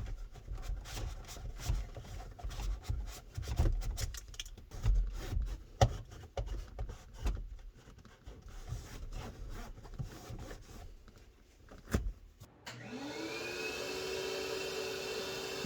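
Irregular knocking, rubbing and thumping of things being handled. About thirteen seconds in, a vacuum cleaner switches on, its whine rising as the motor spins up, then running steadily.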